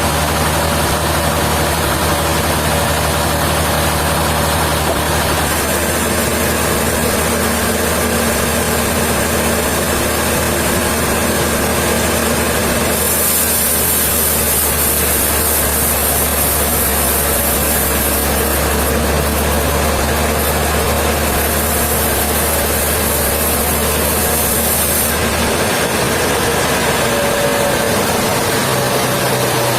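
Heavy engine running steadily at idle with a low hum. A high hiss rises over it from about halfway through and drops away after about twelve seconds.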